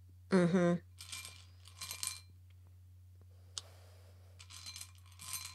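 Tarot cards being handled on a table: a few soft rustles and light clicks, with faint brief clinks.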